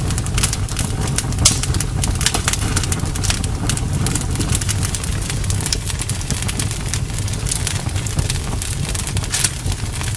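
Bonfire burning: a steady low rumble of flames with frequent sharp crackles and pops from the burning wood.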